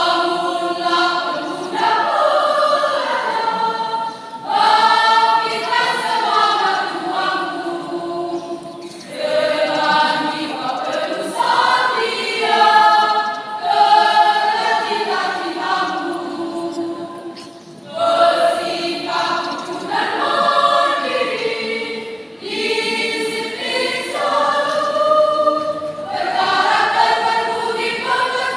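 A school choir singing in parts, in sustained phrases broken by short pauses for breath.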